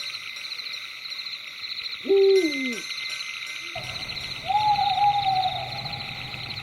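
Owl hooting in a night forest ambience: one loud hoot falling in pitch about two seconds in, then a higher, level call about halfway through. A steady high, fast-pulsing background runs underneath, and the low background hum changes abruptly just before the second call.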